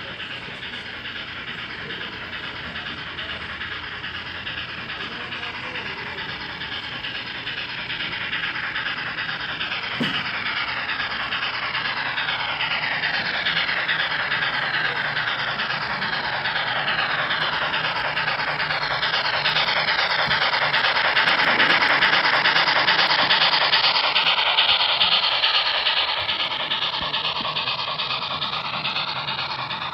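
Model train running past, its wheels and motor making a steady rushing rumble that builds to a peak about two-thirds of the way through and then fades as it moves away.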